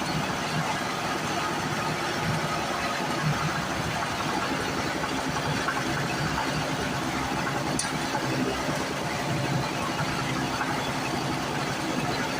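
Small two-stroke portable generator engine running steadily after a governor speed adjustment. The owner thinks a restrictive fuel filter still holds it back a little. A single brief click sounds about eight seconds in.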